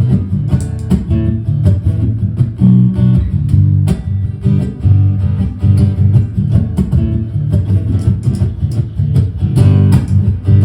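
Strummed acoustic guitar playing an instrumental break in a song, with strong low notes underneath and no singing.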